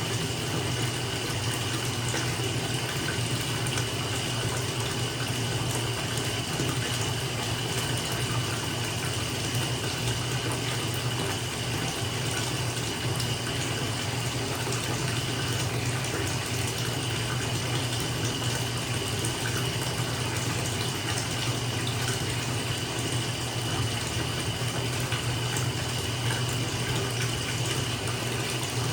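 Bathtub filling from the tap: a steady rush of running water falling into the filling tub.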